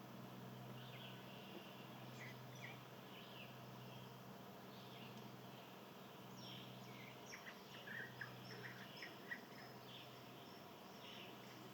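Faint chirps and short calls of small wild birds, scattered and growing busier in the second half, over a low steady hum.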